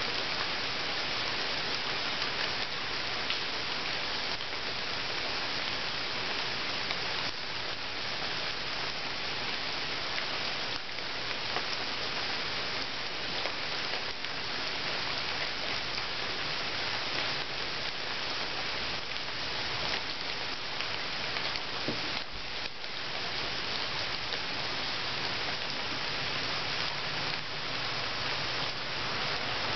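Rain falling steadily into a shallow pool of water: a dense, even hiss with individual drops ticking now and then.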